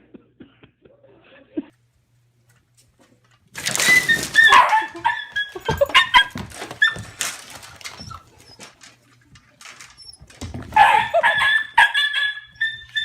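A dog barking and yelping in two excited bouts, about three and a half seconds in and again near the end, with scuffling and clattering noise mixed in.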